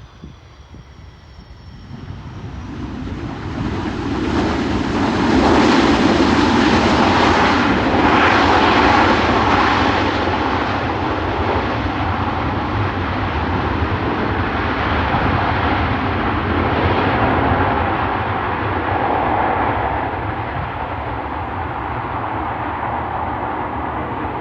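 Jet airliner engines on the runway: a roar that builds over the first few seconds, is loudest a few seconds later, then carries on steady and slightly quieter. A faint falling whine fades out near the start.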